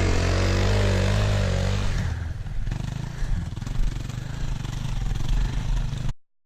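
Motorcycle engine running with a steady note for about two seconds, then a rougher, uneven rumble with some noise; it cuts off suddenly near the end.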